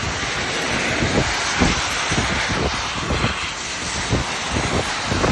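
Heavy rain falling in a steady hiss, with wind gusts buffeting the microphone in irregular low thumps.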